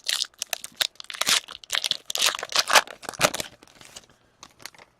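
Hockey card pack wrappers crinkling and tearing as a pack is opened and handled, busy for about three and a half seconds and then dropping to a few sparse rustles.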